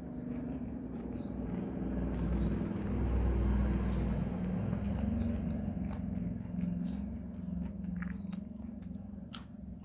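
A low motor-like rumble with a steady hum that swells over a few seconds and then eases off. Over it come small crisp clicks of someone chewing crunchy raw vegetables.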